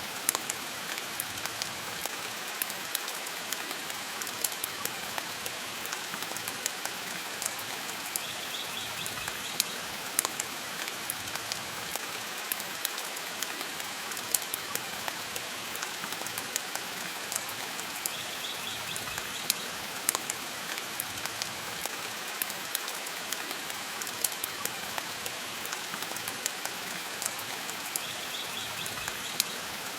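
Steady rain mixed with a wood fire crackling in a fireplace, with frequent sharp irregular pops and snaps over an even hiss. A faint, brief high twitter recurs about every ten seconds.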